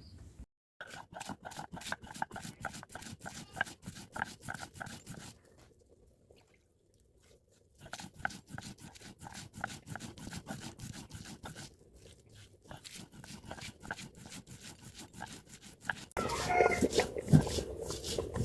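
Rapid, rhythmic scraping and knocking of a coconut-shell ladle (deuwa) stirring rice porridge in a cooking pot, in three spells with short pauses. A louder rustling comes in near the end.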